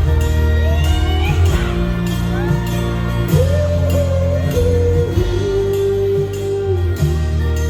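Live country band playing, a lead melody line sliding and bending in pitch over steady bass notes.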